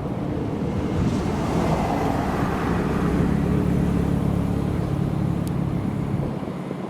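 A supercar's engine running at low, steady revs, its note growing louder over the first seconds and falling away near the end, as the car moves slowly past.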